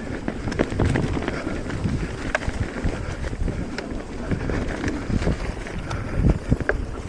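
Electric mountain bike ridden along a dirt trail: wind buffeting the microphone over a low rumble of tyres on the ground, with frequent short knocks and rattles from the bike over the rough surface.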